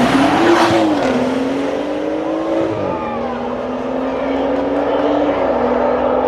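Racing car engine accelerating hard, its note climbing and then stepping down at gear changes about a second in, about three seconds in and near the end.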